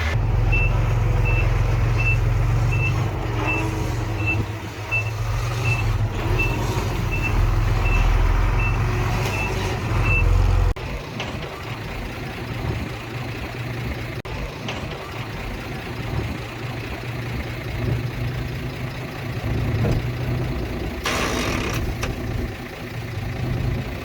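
Diesel engine of a heavy construction vehicle running loudly while its reversing alarm sounds a row of short, evenly spaced high beeps, about one and a half a second, showing it is backing up. The beeps stop about ten seconds in and the loud engine sound drops off suddenly just after, leaving a lower engine running, with a brief hiss near the end.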